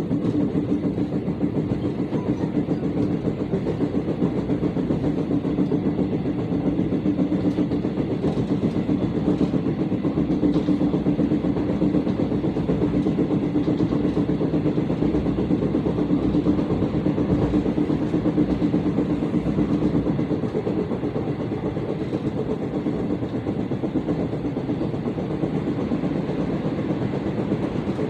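Korean electric commuter train running at speed, heard inside the passenger car: a steady rumble and hum with a rapid, even thumping from the wheels. The uploader puts the heavy thumping down to wheels that have not been reprofiled (out-of-round wheel treads).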